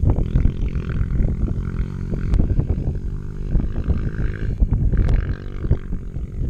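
Off-road motorcycle engine running loud and rough, its pitch rising and falling with the throttle.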